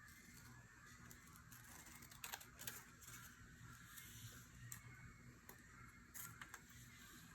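Near silence, with a few faint taps and clicks from handling craft paper and faint bird chatter from outside.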